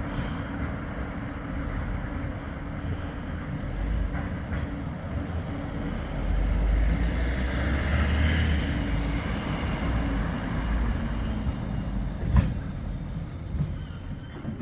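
A large vehicle passing close by: a low rumble that swells about six seconds in and eases off again, with a single sharp knock about twelve seconds in.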